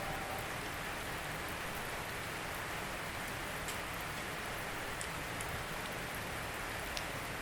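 Steady rain falling, an even hiss with a few sharper single drops standing out now and then.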